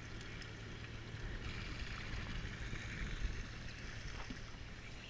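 Twin Yamaha 225 four-stroke outboards idling together: a steady low hum with a faint hiss over it.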